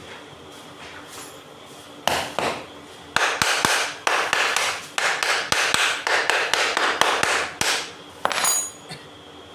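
Hammer blows on the metal parts of a water pump, a run of sharp strikes at two or three a second in short clusters. They start about two seconds in and stop shortly before the end, and the last blow rings.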